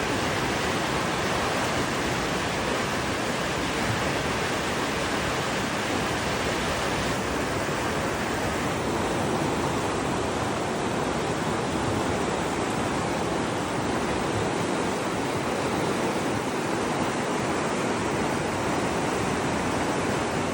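A steady, even rushing noise with no distinct events, of the kind made by running water.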